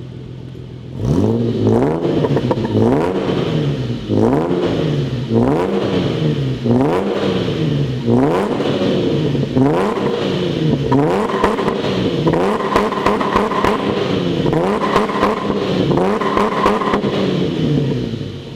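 Mercedes-Benz ML engine revving through a custom exhaust with a screamer pipe that exits through the rear wing. It idles briefly, then is revved about a dozen times in a steady rhythm, each rev rising and falling, with crackles as the revs drop.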